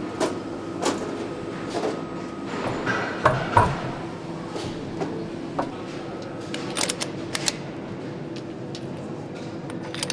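Workshop handling sounds during engine assembly: scattered clicks and knocks of parts and tools being picked up and set down, with two louder knocks about a third of the way in and a quick cluster of clicks past the middle, over a steady background hum.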